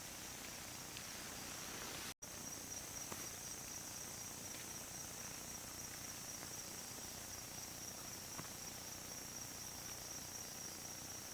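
Insects, crickets or similar, trilling in a steady, continuous high-pitched drone, with a few faint ticks. The sound cuts out briefly about two seconds in.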